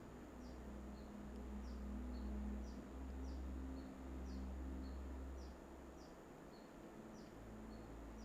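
Faint high chirps repeating steadily, about two a second, alternating a quick downward note with a short flat one, over a low steady hum.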